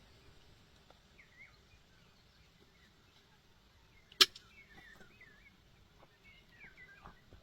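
Small birds chirping in short wavering phrases, with faint scattered ticks and one sharp click about four seconds in.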